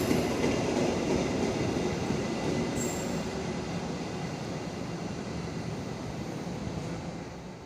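Train running through a station with its steel wheels squealing on the rails over a rumbling roll. The sound fades gradually as the train moves away.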